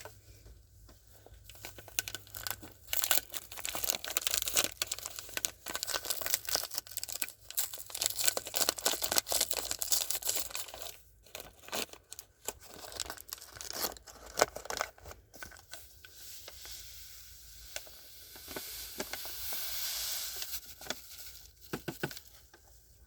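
A bag of cane sugar crinkling and crackling as it is handled, then a steady hiss of granulated sugar pouring into a wooden hive feeder box for several seconds near the end.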